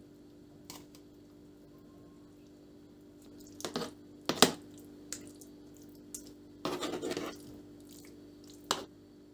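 Small household handling sounds: scattered clicks and knocks, the loudest about halfway through, and a brief rustle or scrape a little later, over a steady low hum.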